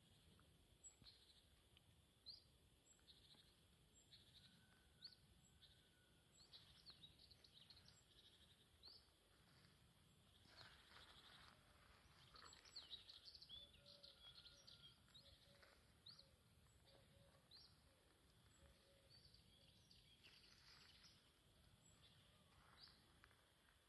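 Faint birdsong: scattered short, high chirps from small birds, busiest about halfway through, with a brief run of lower repeated notes in the middle.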